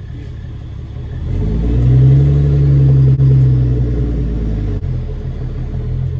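The Kenworth W900B dump truck's straight-piped Caterpillar C13 diesel engine pulls under throttle. It grows louder about a second in, holds for a couple of seconds, then eases off near the five-second mark.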